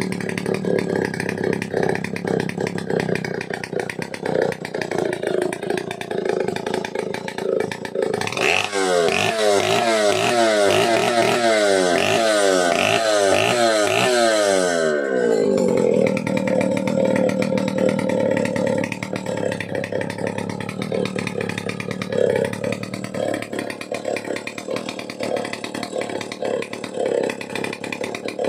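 Vintage Stihl 070 AV two-stroke chainsaw engine running at a steady low speed, then revved up for about six seconds, starting about eight seconds in, before dropping back to idle.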